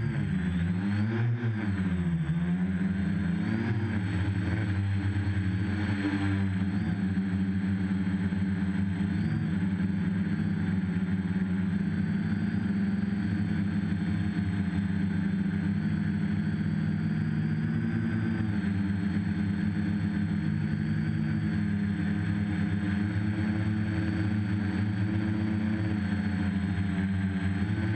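RC copter's motors and propellers running in flight, a steady droning hum. The pitch rises and falls a few times in the first four seconds, then holds nearly steady with small shifts.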